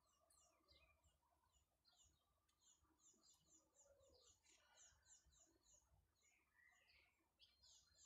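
Faint birdsong: small birds chirping in quick runs of short high notes, over a faint low rumble.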